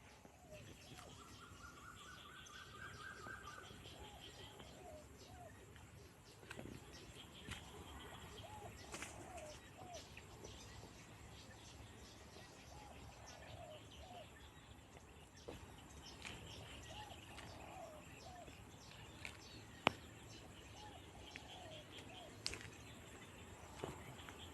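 Faint birdsong: one bird repeats a phrase of three or four short, arched notes every few seconds, over fainter high chirps, with a brief buzzy trill near the start. A few sharp clicks come through, the loudest near the end.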